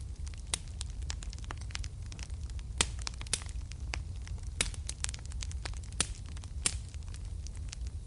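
Wood fire in a fireplace crackling, with irregular sharp pops, a handful of them louder, over a steady low rumble of the flames.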